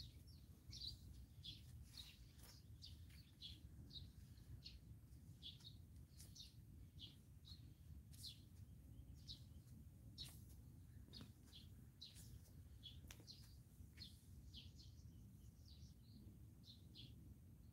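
Faint chirping of small birds: many short, high chirps in quick succession, a few each second, over a steady low rumble.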